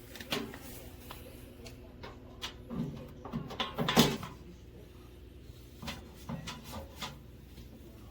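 A string of irregular knocks and clicks from objects being handled, the loudest about four seconds in, over a steady low hum.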